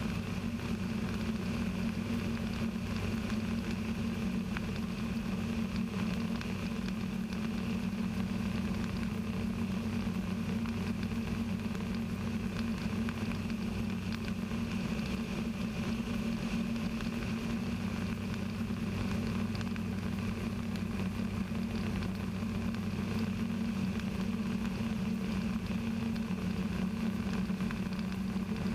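Rotax 582 two-stroke engine of a Kitfox IV light aircraft running steadily at cruise power, an even drone with no change in pitch.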